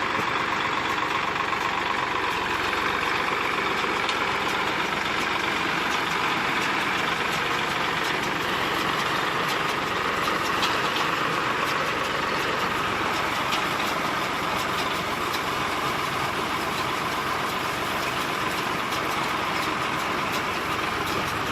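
Tractor-driven baler running steadily: the engine and the baling machinery make a continuous, even machine noise.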